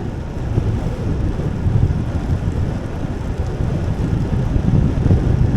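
Wind buffeting the camera microphone of a moving bicycle: a loud, gusting low rumble that swells and falls.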